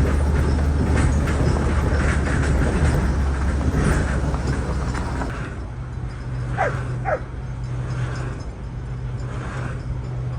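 A vehicle engine running steadily, its hum stepping up in pitch about halfway through. A little after that come two short high cries in quick succession, each falling in pitch.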